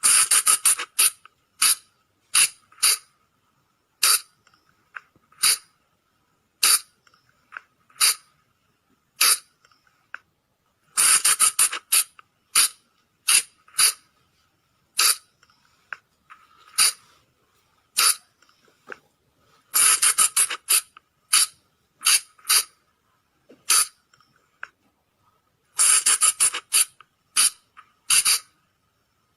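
Sunda flying lemur (colugo) calls played as a hunter's lure: short, sharp, high squeaks. They come singly about once a second, with quick runs of several calls at the start and three more times.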